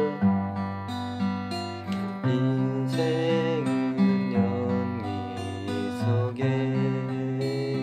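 Acoustic guitar playing an instrumental passage, strumming and picking chords that change every second or two.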